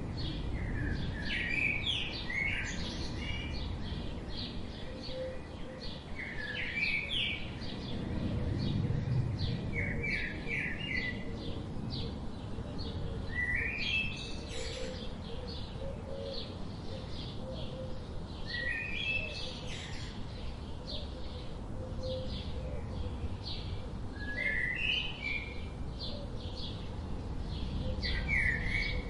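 Songbirds calling: one bird repeats a short song phrase of quick rising and falling notes every four or five seconds, over a constant run of rapid high chirps, with a low rumble underneath.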